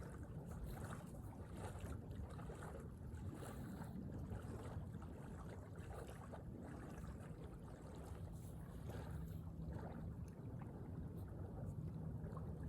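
Low rumble of outdoor wind on the microphone, with faint rustling of handling. A faint steady low hum comes in about two-thirds of the way through.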